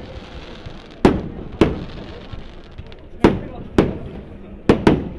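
A series of sharp bangs, six in about five seconds at irregular spacing, the last two close together near the end, each with a short ringing tail.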